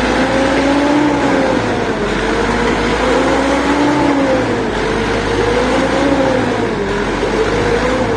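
Engine of a bale-loading machine working under load, its pitch rising and falling every couple of seconds as it pushes a stack of cotton bales into the truck.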